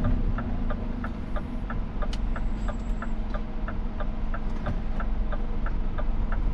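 Scania truck's turn indicator ticking about three times a second inside the cab, over the steady low running of the truck's engine.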